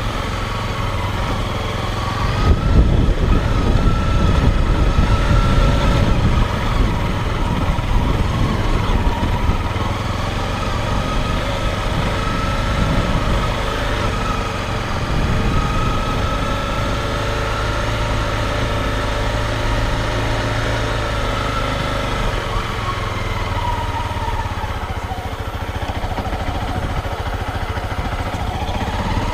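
Motorcycle engine running under way, heard from a camera mounted on the bike, with a louder low rushing noise through the first half. Near the end the engine pitch drops, then rises again as it speeds back up.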